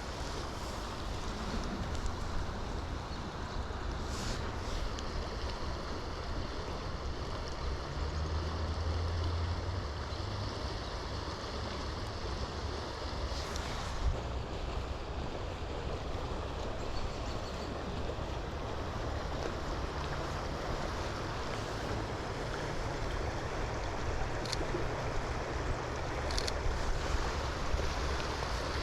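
Steady rushing of flowing river water mixed with wind, with wind rumbling low on the microphone.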